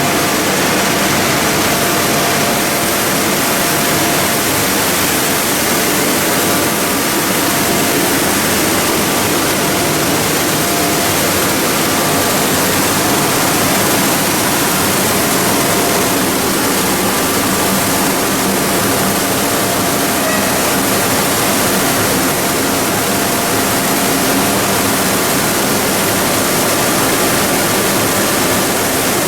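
Machinery of a PE and calcium carbonate pelletizing line running steadily: a loud, even rushing hiss with a faint steady whine in it.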